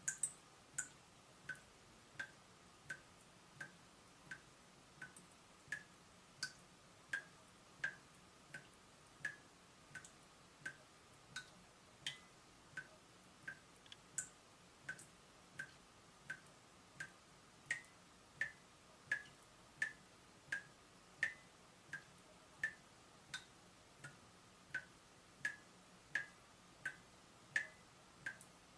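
Water dripping from a leaking tap, drops falling at an even pace of about three every two seconds, each a short, sharp plink.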